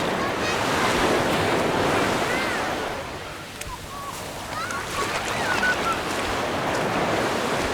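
Mediterranean sea waves breaking and washing up the beach, the surf swelling twice.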